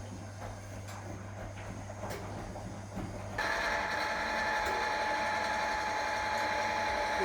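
1961 AEG Lavamat Noris washing machine running: a low hum with faint ticking, then about three and a half seconds in the hum stops and a louder, steady rushing noise with a whine sets in as the machine moves into its next stage.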